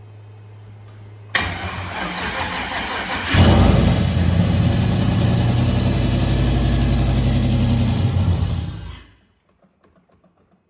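Freshly built turbocharged car engine being cranked by the starter for about two seconds, then catching and running for about five and a half seconds before it cuts out abruptly. This is a first fire-up of the new engine.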